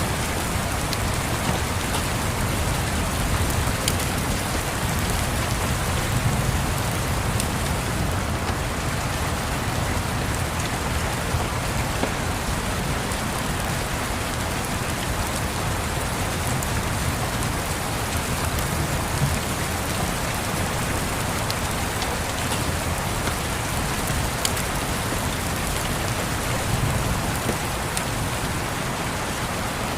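Steady rain falling, a dense even hiss, with a low rumble of distant thunder swelling underneath now and then and a few faint sharp crackles.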